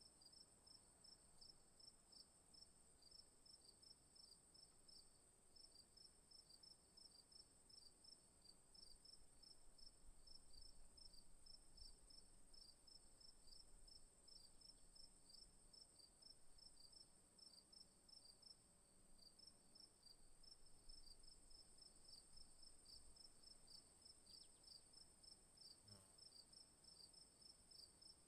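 Faint chorus of insects in the bush: a continuous high trill with a quick, even chirping, several chirps a second, pulsing just beneath it.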